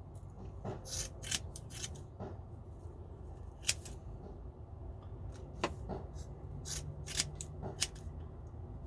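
Scissors snipping fiberglass cloth into small pieces: a string of short, sharp snips at an uneven pace.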